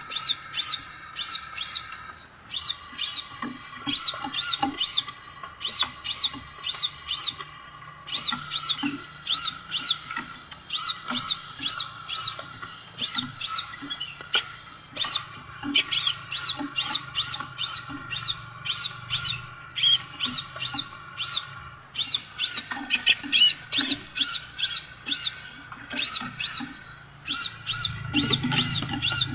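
Scarlet minivet (sepah raja) calling: runs of short, high whistled notes, about three to four a second, broken by brief pauses, over a steady lower trill.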